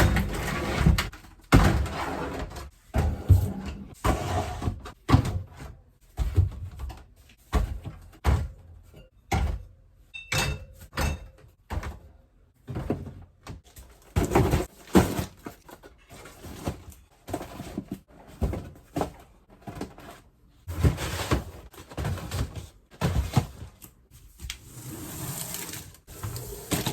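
Groceries and containers being handled and set down on pantry shelves: a steady run of irregular knocks and thunks, some sharp and some dull.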